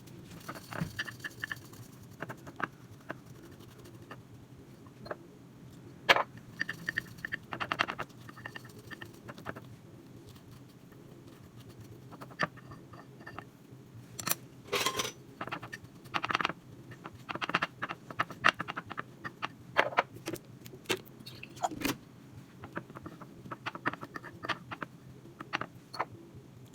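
Irregular short clinks, taps and scrapes of objects being handled, with brief pauses between, over a faint steady low hum.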